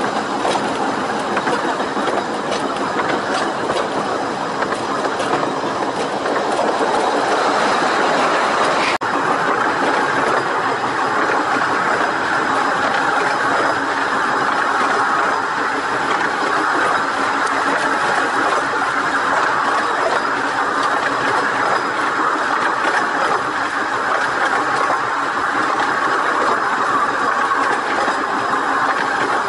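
15-inch-gauge railway carriage running along the line, a steady rushing rumble of wheels on rail with faint clickety-clack, heard from the carriage window. A brief sharp break about nine seconds in.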